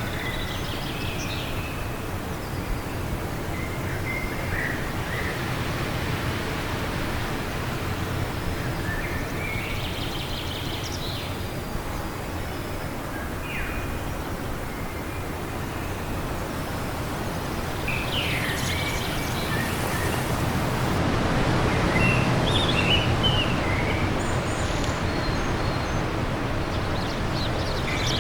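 Steady wind noise with scattered short bird chirps and calls; the wind swells louder about two-thirds of the way through.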